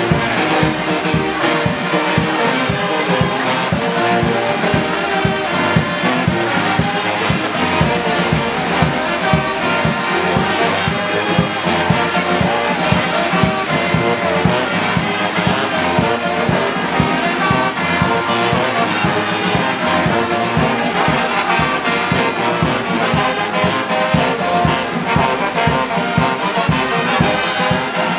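Brass band playing march music, trombones and trumpets over a steady beat.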